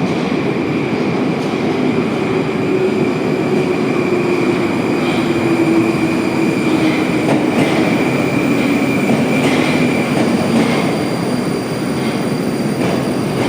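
Metro train running: a steady loud rush of wheel and motor noise, with a lower hum that falls slowly in pitch and a few faint clicks.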